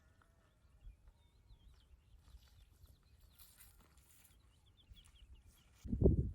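Faint bird chirps over quiet outdoor air, then near the end a sudden loud farm-animal call.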